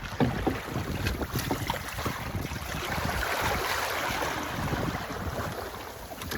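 Wind buffeting the microphone over the rush of water along a sailboat's hull, with a wash of water swelling up about halfway through.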